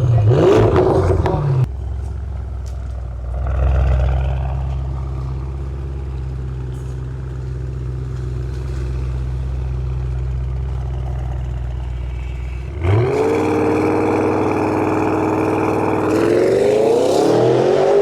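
2021 Audi RS6's twin-turbo V8 through a titanium Valvetronic exhaust with its active valves open: a few quick revs, then a steady low idle. About thirteen seconds in it jumps to a higher, held engine speed whose pitch climbs again near the end.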